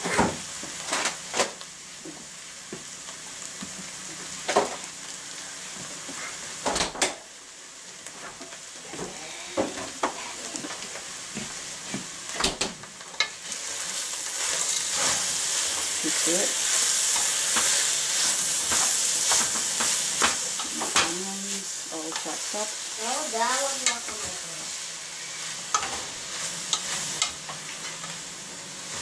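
Ground meat and chopped onions sizzling in a metal pot while a spoon stirs them, knocking and scraping against the pot. The sizzle grows louder about halfway through, once the stirring gets going.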